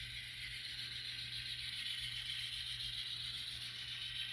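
N scale model train running on the track: a steady high-pitched rolling rattle of the small wheels on the rails, over a steady low hum.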